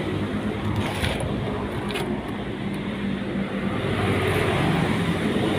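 A vehicle engine running steadily, with a couple of faint clicks about one and two seconds in.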